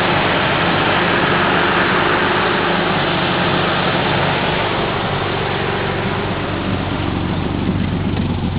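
Subaru XT6's 2.7-litre flat-six engine idling steadily: a low, even hum under a steady whir.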